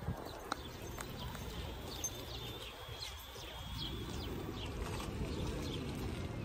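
Small birds chirping, a scatter of short high chirps, over a steady low rumble from the bicycle rolling on pavement.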